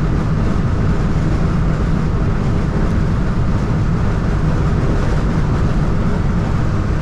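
Steady cab noise of a 1993 Ford F350 with the 7.3 IDI diesel cruising at highway speed: an even low drone of engine and road noise.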